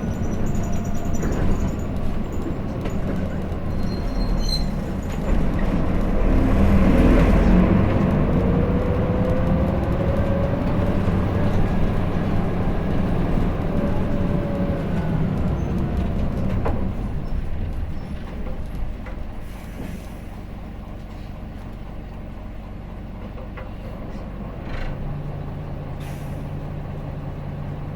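Hino Blue Ribbon City diesel city bus heard from inside the cabin: the engine pulls harder, with a rising whine, then eases off and the bus slows, settling to a steady idling hum near the end. Short hisses from the air brakes come in the latter part.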